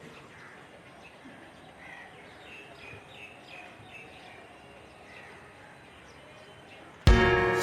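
Faint bird chirps, short repeated high notes, over a steady background hiss of outdoor ambience. Near the end, music with drums cuts in abruptly and is much louder.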